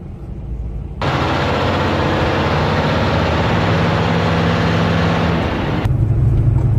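Semi truck diesel engine running with loud road and wind rush. The rush starts abruptly about a second in and gives way near the end to a steady low engine drone.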